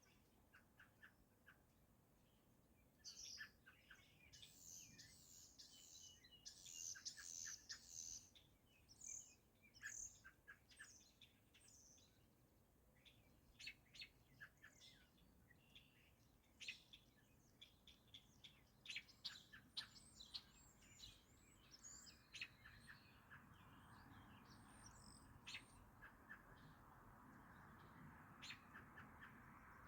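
Faint birdsong: several birds giving quick chirps and short trills, one after another. About two-thirds of the way in a soft steady hiss joins underneath.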